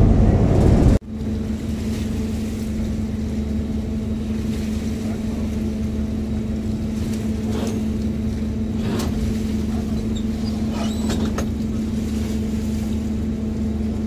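Passenger riverboat's engine droning steadily with a constant low hum. For about the first second a louder rushing noise is heard before it cuts away.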